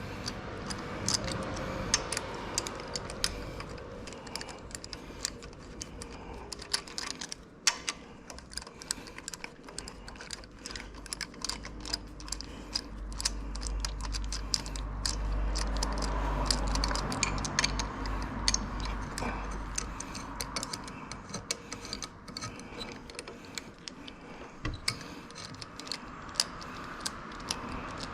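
Irregular light clicks and taps throughout, with a low hum through the middle stretch.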